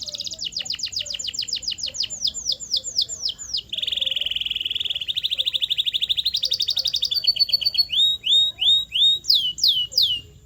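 Canary singing a long varied song: a fast rolling trill, then quick downward-sweeping notes, a buzzy lower trill from about four seconds in, and near the end slower, louder down-slurred whistles.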